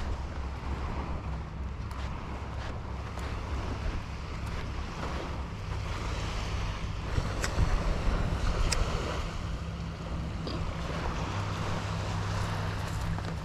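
Surf washing on the beach, with wind buffeting the microphone in a low rumble; a few louder bumps and clicks come about halfway through.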